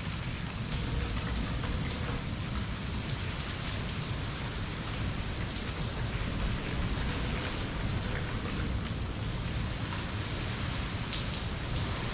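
Steady rain falling, a constant hiss with scattered drop ticks over a low rumble.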